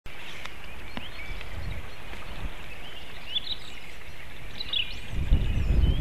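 Small birds chirping and calling in short high notes, some sliding in pitch, over a steady hiss. About five seconds in, a low rumbling noise starts and becomes the loudest sound.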